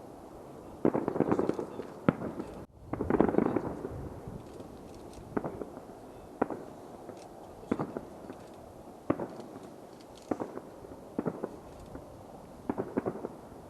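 Aerial fireworks going off: a string of separate sharp bangs, one every second or so, with two denser crackling clusters of bursts about one and three seconds in.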